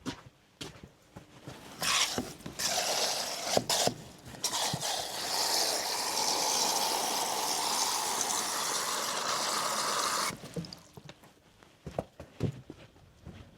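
Water running into a container: a gush that stops and starts a few times about two seconds in, then runs steadily and cuts off suddenly near the end. A few light knocks come before and after it.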